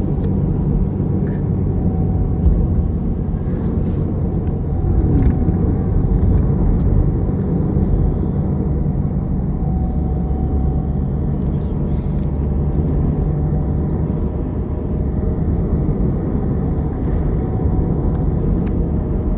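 A car driving: steady engine hum and road rumble.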